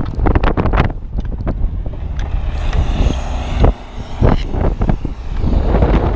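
Strong wind buffeting a GoPro camera's microphone in irregular gusts, a heavy low rumble, with a brighter hissing stretch around the middle.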